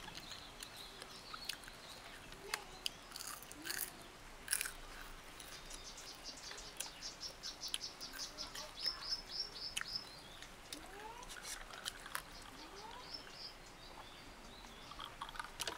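Birds chirping, one giving a rapid high trill of about five notes a second that dips at its end, with short rising chirps after it. Over them come sharp crunching clicks from chewing deep-fried crickets.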